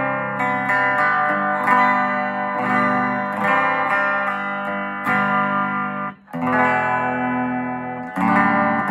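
Telecaster on its bridge pickup played through a restored Gibson GA-25RVT Hawk tube amp's normal channel at moderate volume, clean: a run of sustained chords that change about every second, with a brief break a little past six seconds in.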